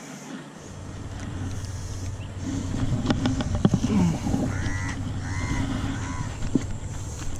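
Low rumble and knocks of movement against a body-worn camera as its wearer walks, with a few sharp clicks about three seconds in. A crow caws a few times in the second half.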